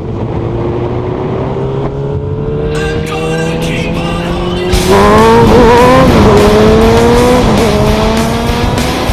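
Motorcycle engine under way, its pitch rising slowly and steadily as it accelerates. About five seconds in it gets louder and the pitch wavers briefly before climbing again.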